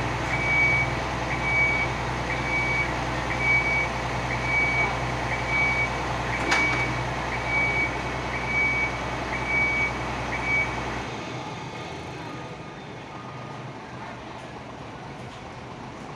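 Fire truck with a 52 m aerial ladder running, its engine a steady low drone under a high warning beeper sounding about once a second. About eleven seconds in, the beeping and engine stop, leaving quieter background noise. A single sharp click comes partway through.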